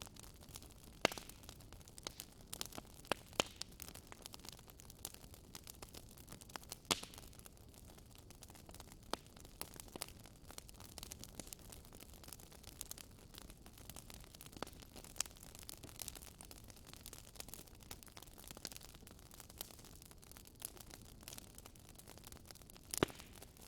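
Wood fire crackling in a fireplace: irregular sharp pops and snaps over a faint steady hiss, with a few louder pops scattered through, one of them near the end.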